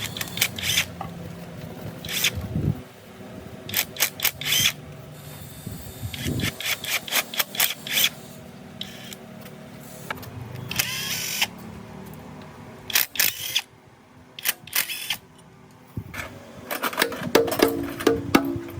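Workshop work on an engine being rebuilt: irregular sharp clicks and knocks over a low steady hum, coming in clusters with short pauses between them.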